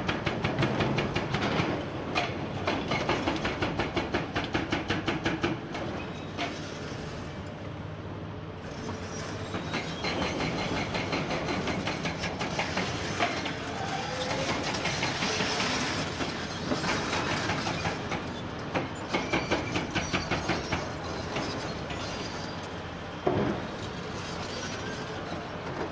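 Hydraulic breaker on a Komatsu PC490 excavator hammering rock in runs of rapid, evenly spaced blows, stopping and starting several times over the excavator's running engine.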